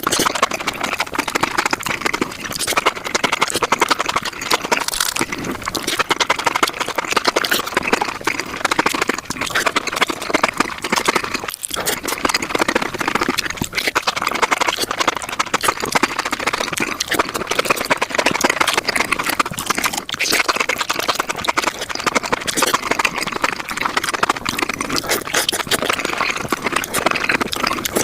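Close-miked eating sounds played back at five times speed: a dense, continuous rattle of rapid chewing clicks and crunches from mushrooms being eaten, with a brief break about a third of the way in.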